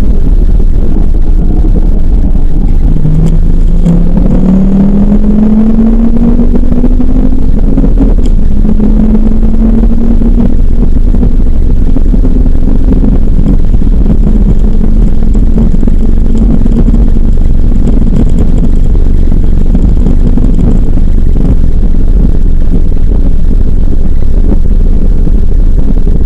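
Ford Focus RS's 2.5-litre turbocharged five-cylinder engine heard from inside the cabin under hard track driving, over a heavy low rumble of road and wind noise. The engine note rises in pitch for several seconds as the car accelerates, then holds roughly steady for a long stretch.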